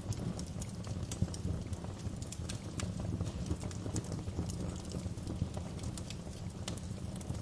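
Wood fire burning in a fireplace: a low steady rumble with frequent irregular crackles and pops.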